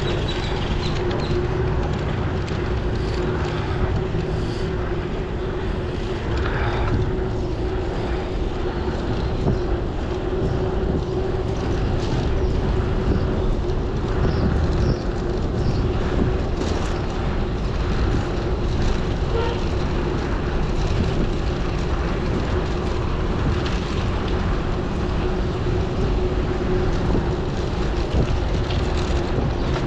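Wind rushing over the microphone of a camera on a moving bicycle: a steady low rumble with a constant hum through it.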